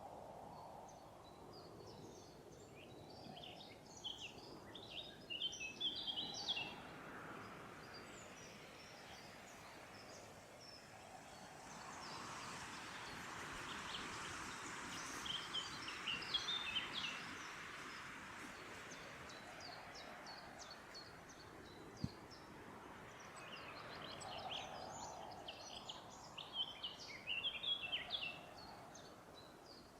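Songbird singing in a forest: three bursts of rapid, high twittering notes about ten seconds apart, over a soft rushing background that swells in the middle.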